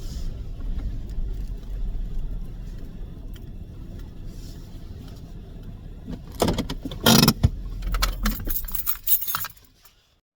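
Low steady rumble of a car on the road, heard from inside. About six seconds in, a few seconds of loud sharp clinking and rattling start, then stop suddenly.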